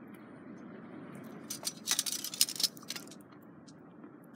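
Small twig fire burning in a collapsible hexagonal camp stove: a steady low rumble with a burst of sharp clicks and crackles between about one and a half and three seconds in.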